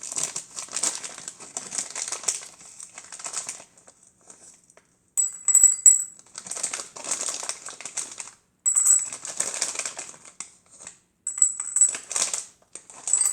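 Crushed peppermint candy pieces clattering and scraping in a small bowl, in about five short bouts of clinking with brief pauses between.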